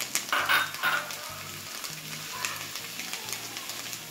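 Chopped tomatoes and fried onions sizzling in hot oil in a pan, with a spatula stirring and scraping. There are a few sharp clatters in the first second, followed by a steady sizzle.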